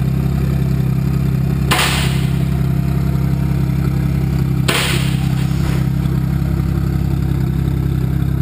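BMW 135i's turbocharged inline-six running steadily at idle through an HPF stainless steel aftermarket exhaust, a constant low hum, with two short hissy bursts about two and five seconds in.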